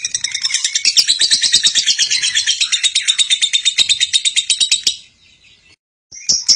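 Lovebird giving a long, rapid chattering trill ('ngekek'), a fast even run of sharp chirps. It breaks off about five seconds in and starts again about a second later.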